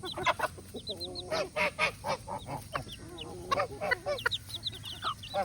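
Baby chicks peeping in many short, quick high chirps, mixed with lower repeated calls from an adult fowl, heard about a second in and again midway.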